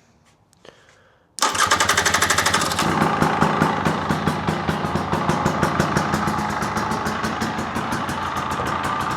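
2024 KTM 300 XC-W's two-stroke single-cylinder engine starting about a second and a half in. It catches at once and runs a little faster for a second or so, then settles into a steady idle after being restarted with the fuel pump freshly primed.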